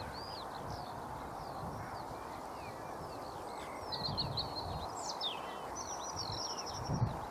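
Repeated short, high bird chirps and twitters, with a brief rapid trill near the end, over a steady hiss.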